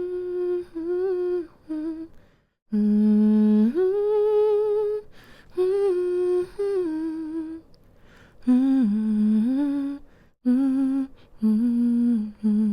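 A woman humming a slow, gentle lullaby tune in held notes with short pauses for breath between phrases.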